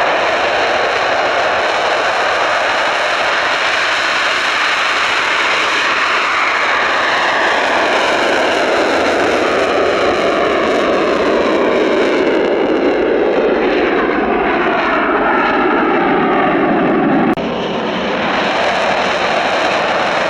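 Eurofighter Typhoon jet engine noise, a steady dense rush with a thin high whine, and a slow sweeping fall in pitch through the middle as the aircraft moves. The sound cuts abruptly to a slightly lower level about 17 seconds in.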